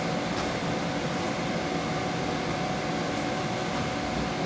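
Steady room background noise: an even hiss with a faint steady hum.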